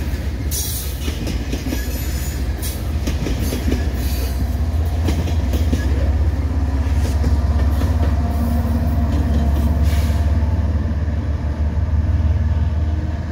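Loaded tank cars of a freight train rolling past close by, their wheels clicking over rail joints. A Kansas City Southern–painted GE ES44AC diesel locomotive in the train then passes, and its engine's low drone builds from about five seconds in and stays strong to the end.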